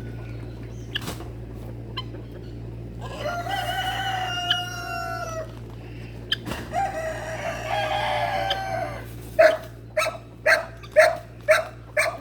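A rooster crowing twice in long drawn-out crows. Near the end comes a quick run of six short, loud calls about half a second apart.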